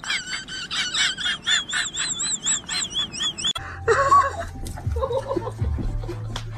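Rapid, repeated high bird-like calls with a warbling whistle over them. About three and a half seconds in they cut off abruptly, giving way to a low steady hum and a few short voice-like sounds.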